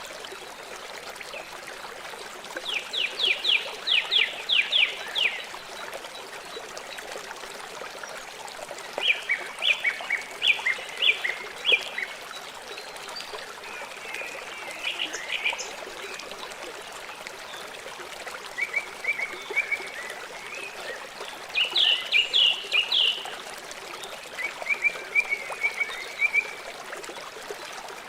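River water flowing with a steady rush, while a bird calls over it several times in quick runs of high, sharp notes, about a dozen notes to a run.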